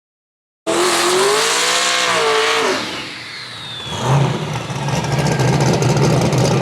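Truck engine revving up and back down, then running steadily at a low pitch with a rush of noise.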